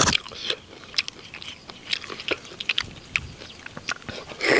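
A person chewing and biting food, with irregular wet clicks and smacks of the mouth and a louder burst near the end.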